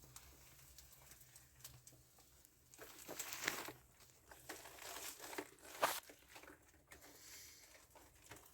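Faint rustling and scuffing handling noise, with a few sharper scrapes about three seconds in and again near six seconds.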